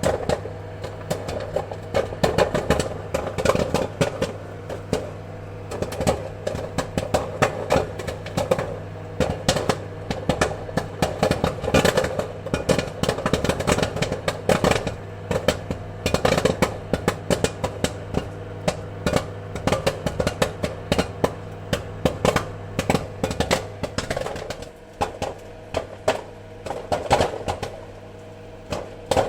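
Popcorn kernels popping in quick, irregular succession over a steady low hum. The pops thin out briefly around two-thirds of the way through, then pick up again.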